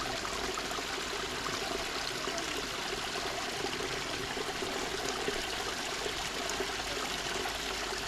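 Spring water running and trickling steadily.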